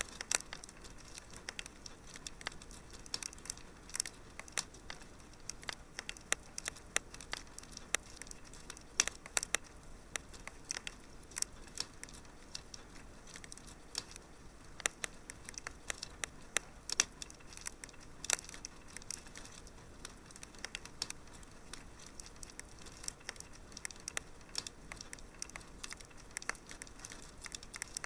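Wood fire burning in a fireplace, crackling and popping irregularly over a soft steady hiss, with several sharper pops standing out.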